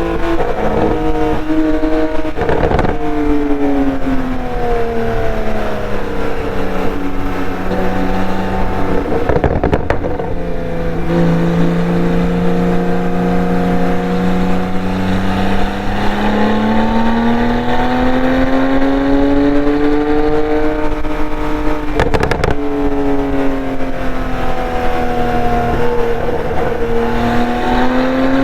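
Porsche 911 Turbo S twin-turbo flat-six through a SOUL Performance exhaust, under way on the road. The engine note eases down over the first several seconds, then climbs and falls twice more as the car accelerates and lifts off. There are a few brief breaks, about a quarter of the way in, near the middle and near the end.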